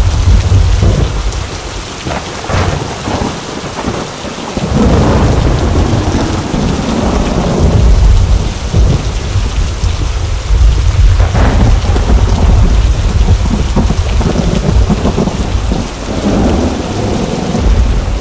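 Thunderstorm: steady heavy rain with long rolls of low thunder. The thunder rumbles loudly from the start, eases off a couple of seconds in, swells again at about four and a half seconds and rolls on, dying down near the end.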